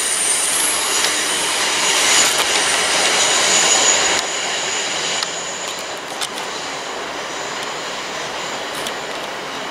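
Electric multiple-unit passenger train running on the track close by: a steady rail noise with a thin high-pitched squeal of wheels on the curve. It gets quieter about four seconds in as the train draws away.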